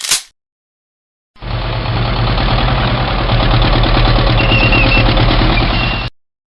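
A short sharp click at the start. Then, from about a second and a half in, an engine idles steadily with an even rhythmic pulse for about five seconds before cutting off suddenly.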